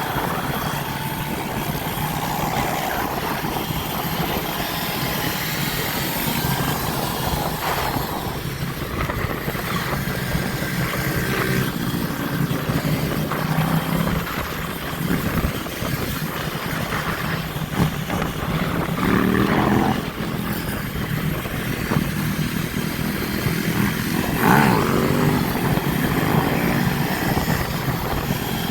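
Motorbike and dirtbike engines running in a group ride over a steady rumble of riding noise. A bike revs up about two-thirds of the way through, and another revs near the end.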